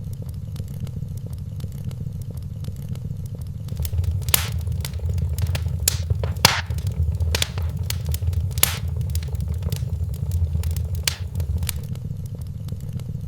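Wood fire crackling in a fireplace: irregular sharp pops and snaps over a steady low rumble of flame, which swells somewhat through the middle.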